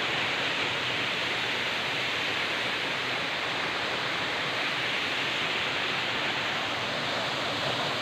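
Steady rushing of a forest river's flowing water.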